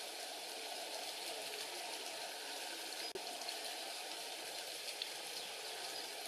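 Steady rushing of a mountain stream, with a faint click about three seconds in.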